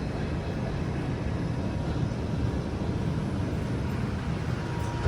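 Inside an R142 subway car: steady low rumble of the train as it comes to a stop in the station, with a faint steady whine near the end.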